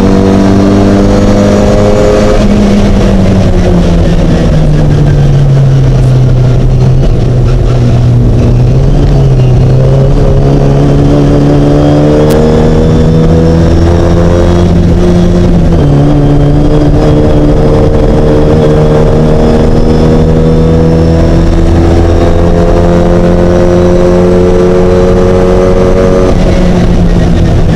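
Mini race car's engine running hard under load, its note climbing steadily and then dropping several times at gear changes and on lifting off.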